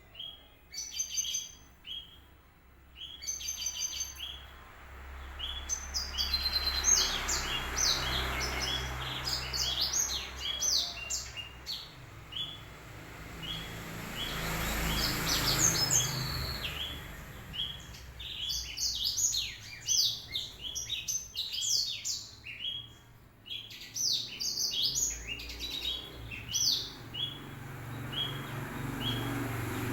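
A blackthroat (yellow-rumped seedeater) in full song: rapid runs of short, sharp, high chirps and trills, repeated over and over with only brief pauses. A soft rushing noise swells twice behind it.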